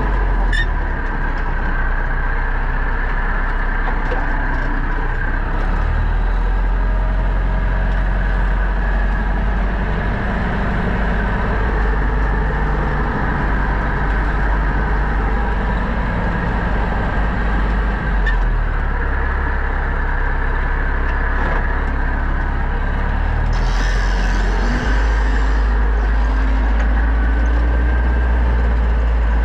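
Pronar 1025A tractor engine running steadily under load while ploughing, its low note shifting about two-thirds of the way through. A brief hiss lasting about two seconds comes near the end.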